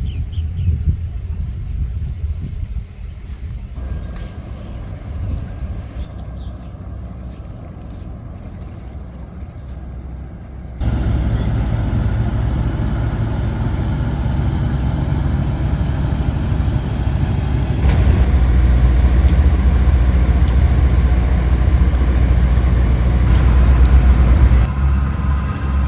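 Motor vehicle on the move: a steady deep engine and road rumble in several spliced stretches. It turns abruptly louder about 11 seconds in.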